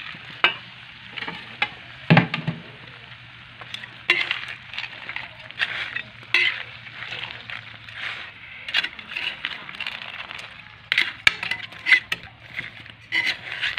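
A spatula stirring shrimp and crab in sizzling butter in a pan: irregular scrapes and clicks over a soft sizzle, with a low steady hum underneath.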